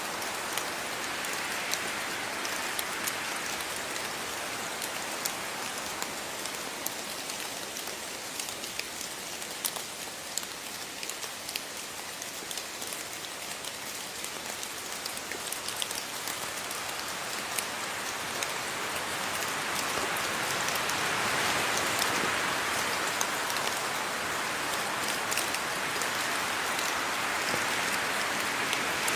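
Steady rain falling, with many distinct drops ticking on a surface; it grows louder about two-thirds of the way in.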